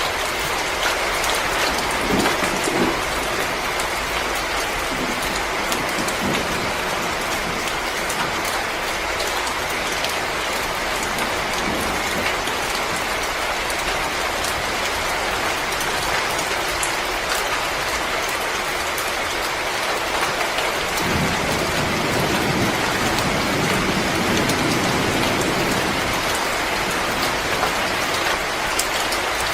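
Wood fire crackling in a fireplace: a steady hiss dotted with many small sharp pops and snaps. A deeper rumble joins after about twenty seconds.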